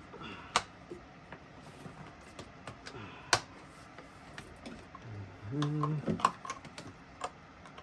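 Scattered clicks and knocks of plastic and metal engine-bay parts being handled and fitted, with one sharp click about three seconds in. A short murmur of a man's voice comes in near the end.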